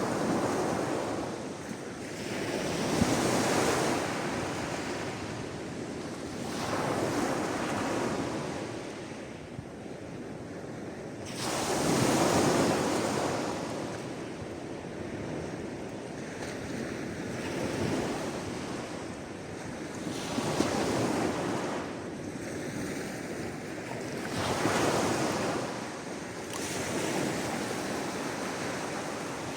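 Sea waves washing in one after another, each a surge of rushing hiss that builds and fades every four seconds or so, the biggest about twelve seconds in.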